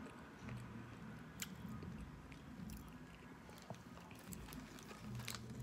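A person chewing a mouthful of burger with small wet clicks of the mouth, faintly.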